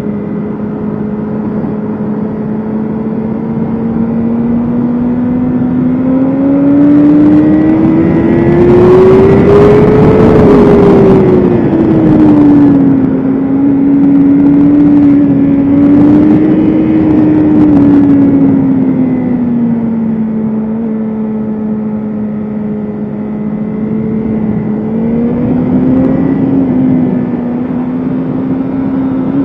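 BMW S1000RR inline-four engine running hard at high revs. The pitch climbs to its highest and loudest about a third of the way in, eases back, drops lowest about three quarters of the way through, then climbs again near the end. A steady rushing noise runs beneath it.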